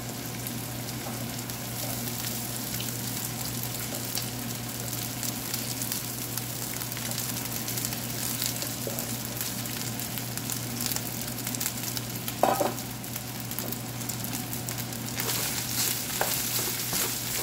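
Shrimp, onion and vegetables frying in a hot pan with a steady sizzle and crackle as cooked rice is dropped in on top, with one short knock about two-thirds of the way through. Near the end a wooden spatula starts scraping and turning the rice in the pan, adding denser scratchy clicks.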